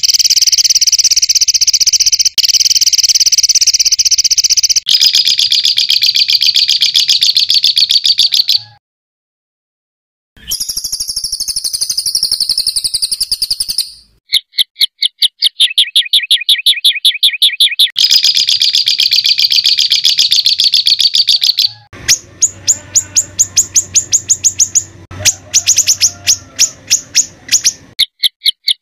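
Songbird tutor recording of harsh, rapid-fire 'tembakan kasar' calls: fast strings of high, sharply repeated notes, with a second and a half of silence at an edit about a third of the way in, followed by a high, wavering warble and then more bursts of rapid repeated notes.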